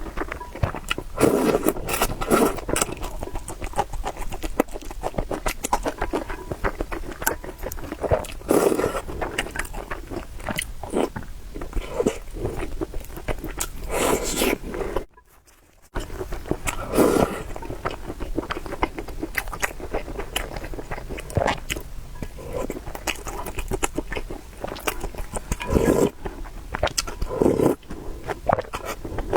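Close-miked eating sounds: noodles and soup being bitten and chewed, with utensils clicking and scraping. The sound cuts out for about a second halfway through.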